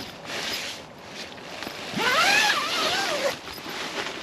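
A person's drawn-out wordless vocal sound, about two seconds in, rising in pitch then wavering and falling, over a steady hissy rustling.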